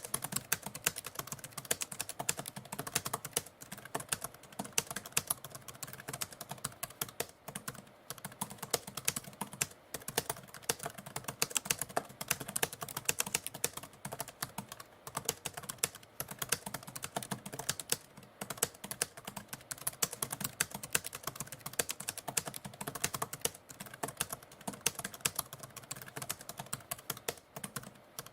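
Typewriter keys struck in quick, continuous runs of clacks, with short pauses every few seconds.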